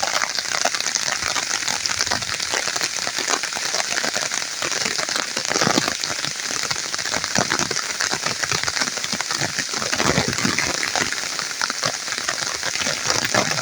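Heavy, steady rain falling: a dense, even hiss of rain with countless individual drops striking through it.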